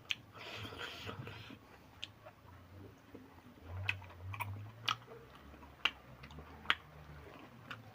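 A person chewing smoked pork close to the microphone, with scattered wet mouth clicks and smacks.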